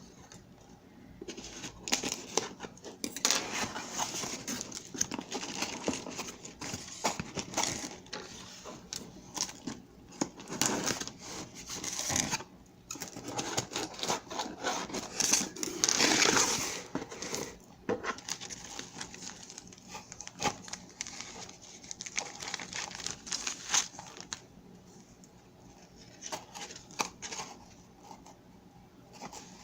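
A subscription box being opened and unpacked by hand: irregular crinkling and rustling of packaging, with scattered small clicks and knocks.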